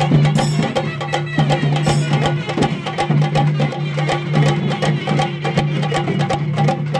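Chenda melam percussion: chenda drums struck in rapid, dense strokes, over a steady low tone.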